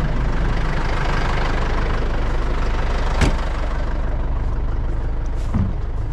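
Kubota tractor's diesel engine idling steadily, left running. A sharp click about three seconds in and a dull thump near the end.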